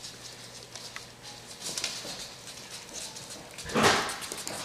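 Staffordshire Bull Terrier puppies play-fighting: light scuffling and small sounds, then a louder burst of puppy noise a little under four seconds in.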